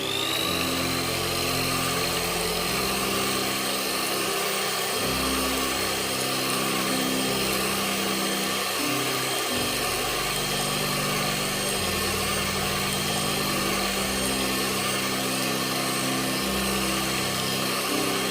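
A small electric motor spinning up with a rising whine at the start, then running steadily with a high whine and hiss, over background music with slow low notes.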